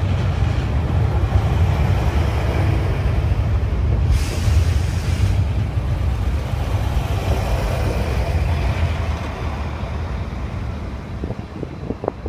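PESA Link diesel multiple unit running close past along the platform, a heavy low rumble of engine and wheels. A brief hiss rises about four seconds in. The sound fades over the last few seconds as the train moves away.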